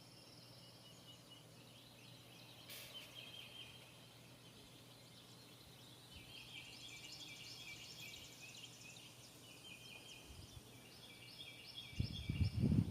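Faint runs of rapid, high-pitched chirping trills from outdoor wildlife, repeating every few seconds. About a second before the end a much louder, low, rough noise sets in.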